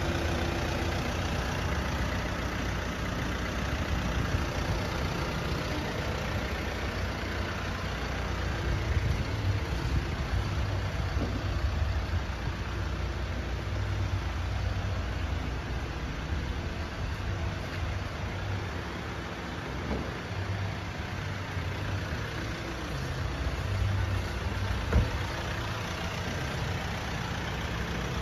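Vauxhall Astra GTC's 1.6 CDTi diesel engine idling steadily. A single sharp knock near the end.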